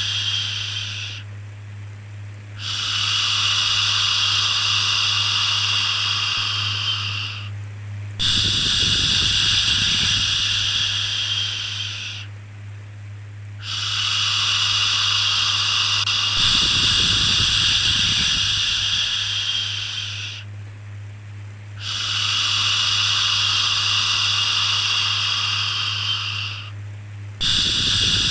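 Baby-soothing shushing, a long 'shhh' held for four to six seconds at a time with short breaks between, repeating over a steady low hum.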